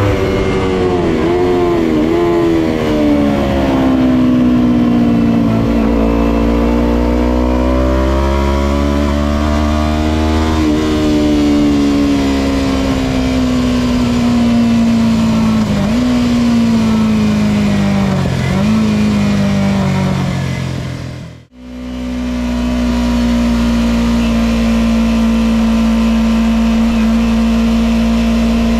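Kawasaki Ninja 250 parallel-twin engine running hard on track, its pitch falling and rising with several brief sharp dips. About two-thirds of the way in, the sound cuts out for a moment, then returns holding a steady high pitch.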